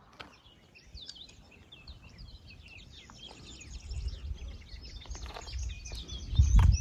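Small birds chirping and singing, many quick high calls overlapping. A low rumble builds in the second half and is loudest just before the end.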